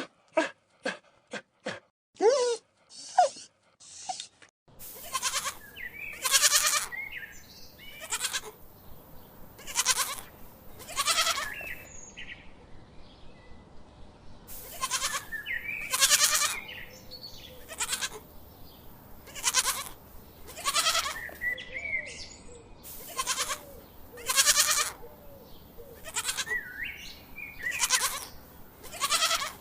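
Farm animal bleating: loud calls in clusters of about three, repeated every several seconds over a steady background hiss. The first few seconds hold a quicker run of short, sharp animal calls before the bleating begins.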